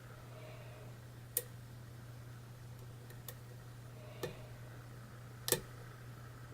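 Lock pick clicking against the pins of a Deja Vu challenge lock during picking toward a false set: four sharp, irregularly spaced clicks, the loudest near the end, over a faint steady low hum.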